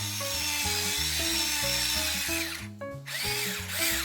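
Pepper grinder grinding in a steady rasp that stops a little past halfway, then grinds again briefly, over background music.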